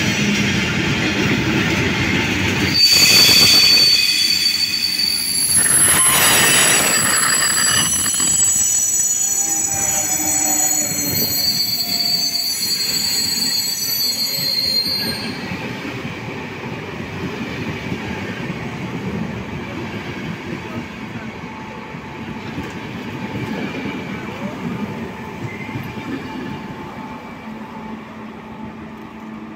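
Intercity passenger coaches rolling slowly past beside the platform. High-pitched wheel and brake squeal starts about three seconds in and stops around halfway. The rumble of the wheels then fades as the last coach goes by.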